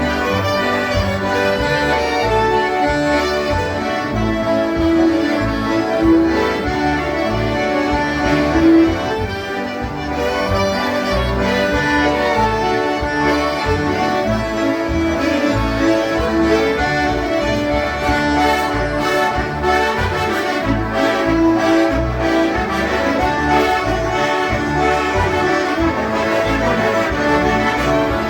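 A group of concertinas playing a polka together: sustained reedy chords and melody over a steady, even beat in the bass.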